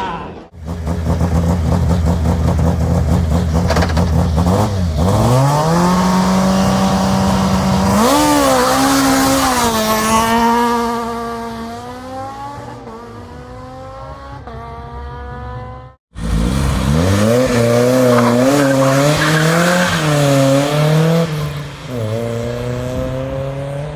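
Renault Clio S1600 rally car held at high revs on the start line, then launching and accelerating hard, its engine note climbing and dropping through quick upshifts as it pulls away. About two-thirds of the way through, a second rally car revs and launches, rising through its gears.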